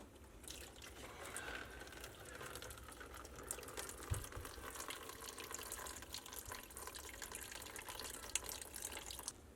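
Residual water trickling and splattering out of a copper water line opened at the pressure regulator, as the drained line empties. It starts about half a second in and stops suddenly near the end.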